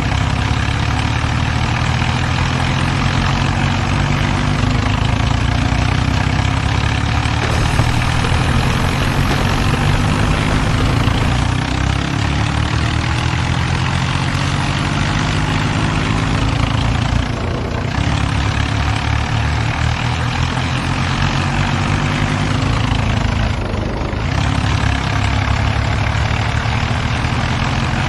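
Tractor diesel engines running hard under heavy load in a tug-of-war pull, the pitch wavering, with two brief dips in the second half.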